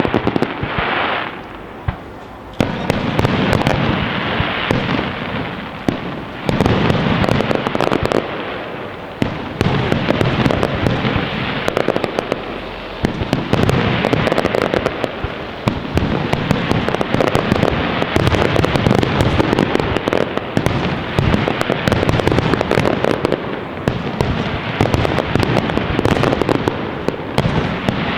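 Professional fireworks display in a dense barrage: shells bursting in rapid, overlapping bangs with crackling, almost without pause, apart from a brief lull about two seconds in.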